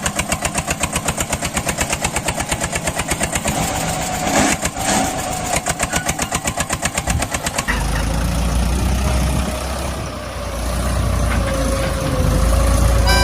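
Tractor engine running with an even chugging of about six beats a second. About eight seconds in it changes to a deeper, steadier running.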